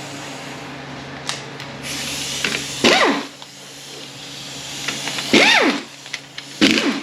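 A handheld power wrench runs 14 mm bolts out of a transmission housing in three short bursts, each rising and falling in pitch as the tool spins up and winds down. A steady low hum runs underneath.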